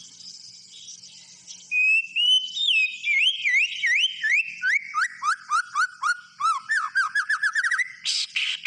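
White-rumped shama singing: clear whistled, slurred notes that step down in pitch and speed up into a rapid run, ending in a harsh, scratchy burst near the end. A faint high buzz comes before the song starts.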